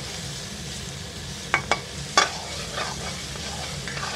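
Raw mango slices frying in ghee in a metal kadhai, a steady sizzle, while a metal spatula stirs them, knocking and scraping against the pan about four times in the middle.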